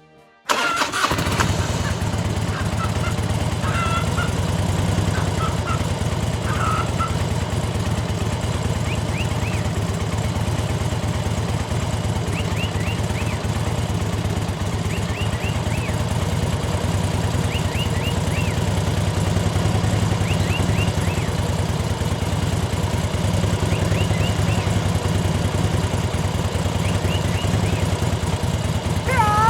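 Small engine of a DIY mini tractor running steadily, cutting in suddenly about half a second in. Faint short high chirps come and go over it.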